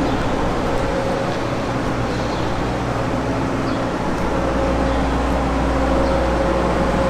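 Steady city street noise dominated by a running vehicle engine, its low rumble growing louder about four seconds in.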